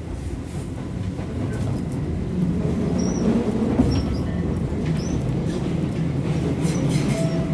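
Tobu 8000 series electric commuter train running between stations, heard inside the passenger car: a steady low rumble of wheels and running gear on the rails, growing slightly louder about two seconds in, with a few faint clicks.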